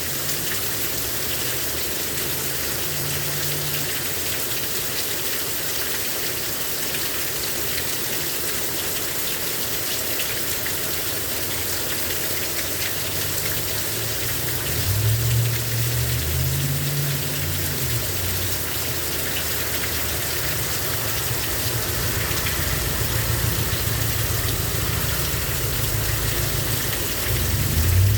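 Heavy rain pouring down, a steady dense hiss of falling rain. A low rumble swells about halfway through and again near the end.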